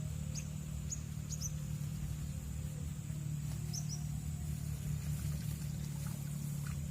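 Short, high, falling bird chirps several times, over a steady low hum and a thin high whine.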